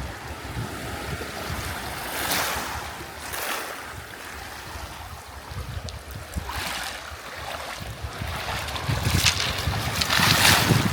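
Waves washing in on the shore in several surges a few seconds apart, the loudest near the end, with wind buffeting the microphone in a low rumble underneath.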